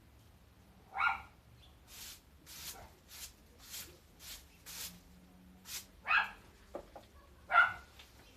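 A dog barking three times, single sharp barks several seconds apart. Between the barks comes a run of about eight short scratchy strokes, roughly two a second, from the garden-clearing work.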